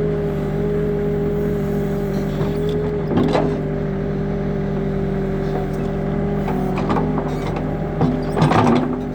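New Holland backhoe loader's diesel engine running steadily, with sharp clanks from the digging arm and bucket about three seconds in and again near the end.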